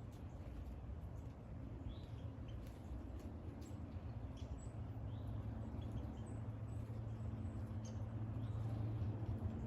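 A small bird chirping: short, high, rising chirps repeated every second or two over a steady low hum.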